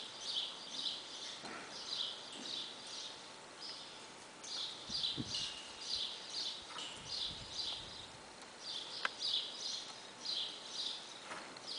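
Small birds chirping steadily, a run of short high chirps two or three a second. A few soft low thuds come around the middle: a horse's hooves walking on arena sand.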